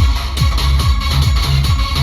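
Loud electronic dance music with heavy, booming bass and a punchy kick drum that drops in pitch on each hit, played through a large DJ sound system.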